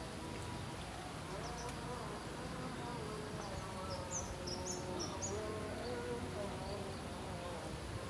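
A quick series of about five short, high bird chirps a little past the middle, over a faint wavering buzz.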